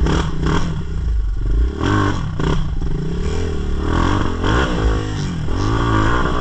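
Dirt bike engine revving up and down several times, its pitch rising and falling.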